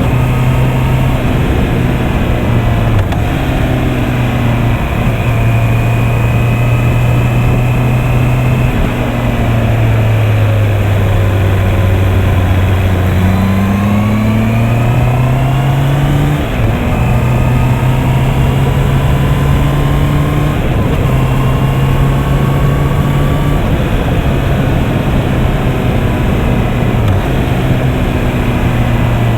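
Honda CB650R's inline-four engine under way, heard from the rider's position with wind noise. It eases off about nine seconds in, then revs back up a few seconds later, with several quick steps in pitch afterwards that fit gear changes.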